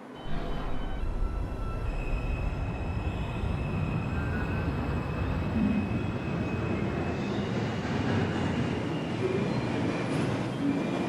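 R142 subway car running on the rails, heard from inside. Its electric traction motors whine in several steady tones that shift in steps as it starts off from a stop, over the rumble of the wheels. Faint wheel squeal rises near the end.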